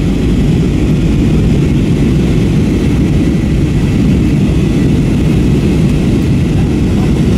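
Steady engine and airflow noise inside the cabin of an Airbus A321-232 in flight: a deep, even rumble with a faint steady high tone over it. The aircraft has IAE V2500 engines.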